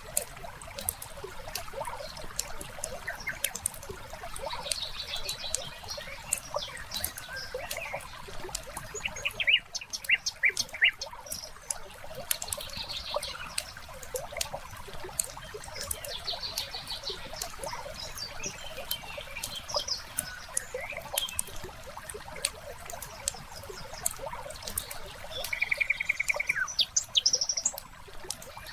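Wood fire crackling with dense, irregular small pops and snaps, a louder run of crackles about ten seconds in. Birds chirp and trill over it, with a short, fast, even trill near the end.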